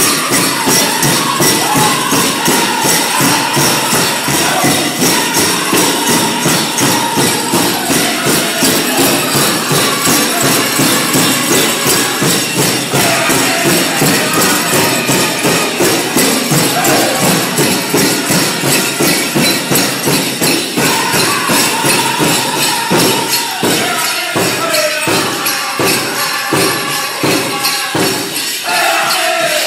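Powwow drum group singing over a steady, fast drumbeat, with the jingling of the grass dancers' bells. Louder, separate beats stand out near the end.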